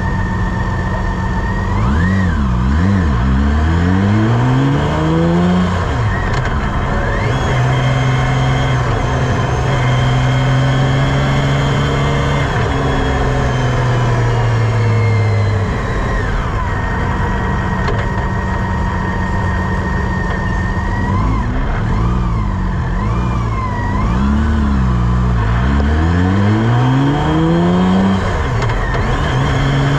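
Campagna T-Rex three-wheeler's engine, heard from inside the open cockpit, accelerating with revs rising and dropping through several gear changes, then running at a steady pitch while cruising. Near the middle the revs fall away, and later it accelerates through the gears again.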